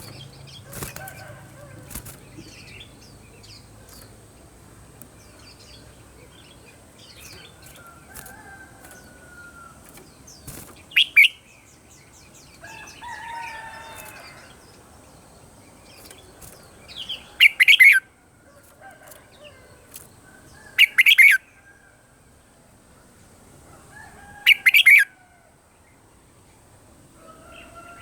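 Red-whiskered bulbuls singing: scattered chirps and short warbled phrases, broken by four loud, brief bursts spread through.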